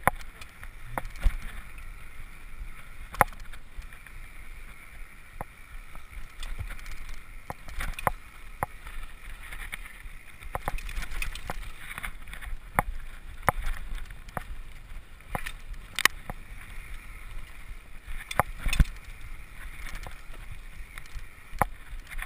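Mountain bike riding down a rough trail: a steady hiss of tyres on dirt, with repeated sharp knocks and rattles from the bike hitting bumps at irregular intervals.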